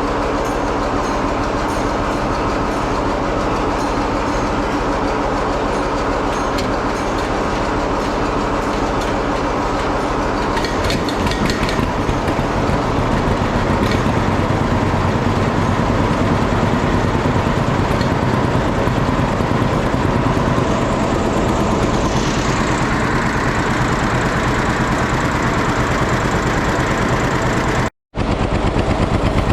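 Gasoline starting engine of an antique diesel tractor running steadily, turning the diesel over during a hard start. It grows a little louder about a third of the way in, and there is a short break near the end.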